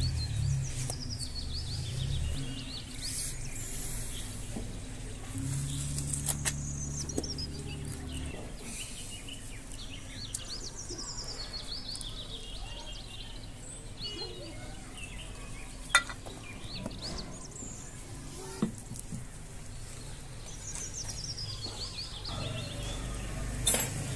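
Birds singing in repeated series of descending chirps over a steady hiss, with a low rumble in the first few seconds and a few sharp clicks later on.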